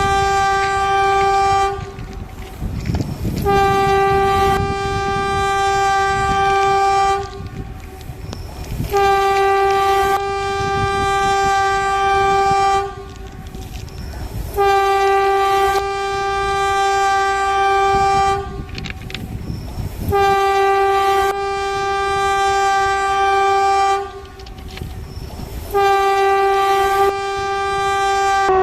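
A train horn sounds about six long blasts on one steady pitch, each lasting three to four seconds, with short pauses between them. The rumble of the moving train carries on under the blasts and through the gaps.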